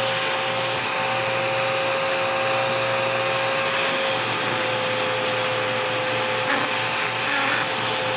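Dirt Devil Power Max vacuum cleaner running steadily, a motor whine with an even rush of suction.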